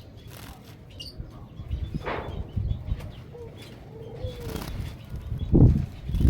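Small cage birds fluttering their wings and rustling in the cage, the loudest flurries near the end. A dove's short two-note coo sounds softly in the background a little past halfway.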